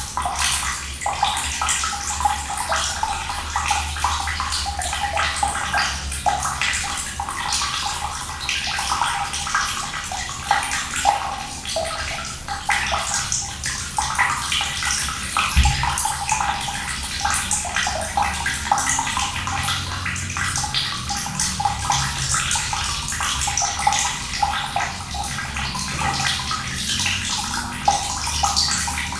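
Cold water running and splashing steadily, like a tap pouring into a filled tub, over a low rumble. A single brief low thud about halfway through.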